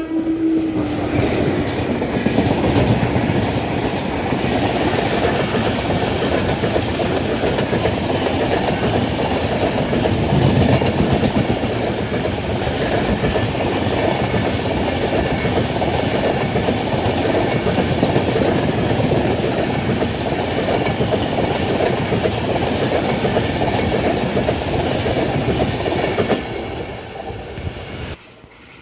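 Electric-locomotive-hauled passenger train passing close by at speed, its wheels clattering over the rail joints in a continuous loud rush. A horn note dies away in the first second, and the train noise fades quickly near the end.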